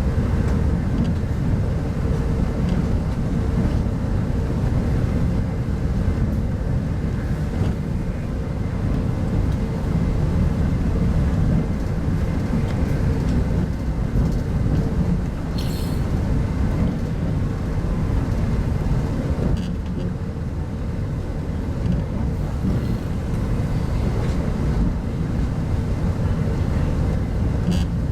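Steady low rumble of a 25T-type passenger coach (RZ25T) running along the line, heard from inside the carriage, with a faint steady hum and a couple of brief clicks.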